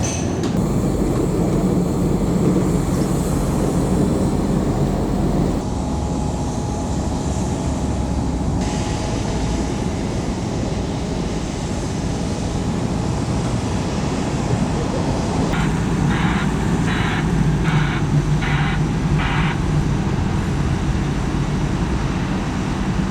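Steady rumble of a passenger rail vehicle in motion, with its level and tone changing abruptly a few times. Near the middle to later part, six short evenly spaced higher-pitched sounds ring out over the rumble.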